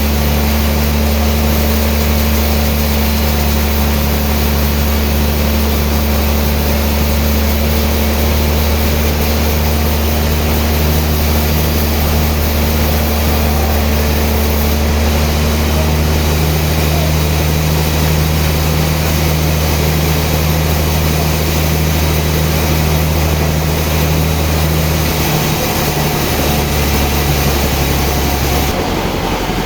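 Sawmill machinery running steadily: a loud, constant low engine drone with a hiss above it. The low drone drops away shortly before the end.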